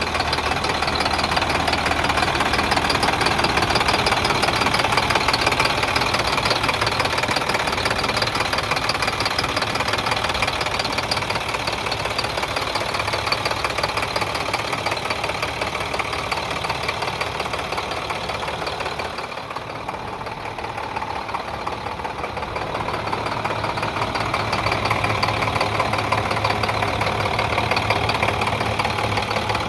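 The diesel engine of an International DuraStar 4400 truck idling steadily with a knocking clatter. It grows briefly quieter about two-thirds of the way through, then returns to the same level.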